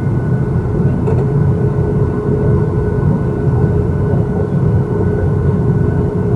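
Steady cabin noise inside a Boeing 737-800 before takeoff: a low rumble with a steady hum held throughout.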